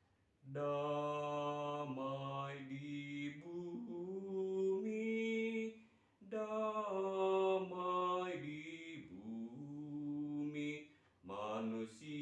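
A man's bass voice singing a Christmas hymn a cappella in long held notes, in three phrases with short breaks about six and eleven seconds in.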